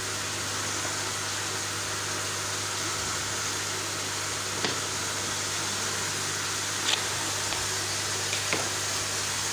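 Steady sizzling hiss of food frying in a pan over a low, even hum, with a few faint taps.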